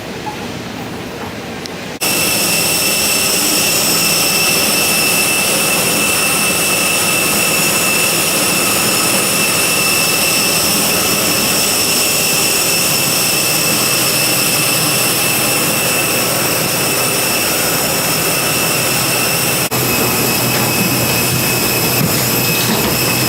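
Steady high-pitched whine of a jet aircraft's turbines at close range, cutting in suddenly about two seconds in after a quieter steady rumble.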